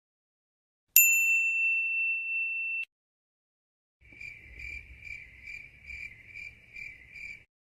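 Two stock sound effects. First a single bright ding rings for about two seconds and cuts off. Then a cricket chirps in even pulses, about two and a half a second, for around three seconds.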